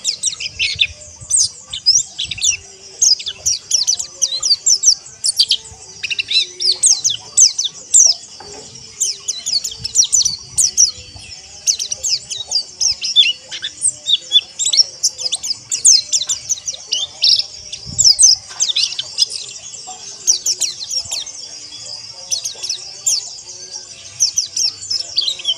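Many white-eyes twittering together in a dense, unbroken chorus of rapid, high-pitched overlapping chirps.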